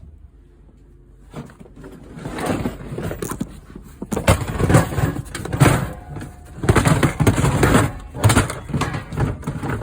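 Tool boxes and gear being shoved and rearranged in a pickup truck bed: a run of scrapes and clunks that starts about a second in, with several loud knocks.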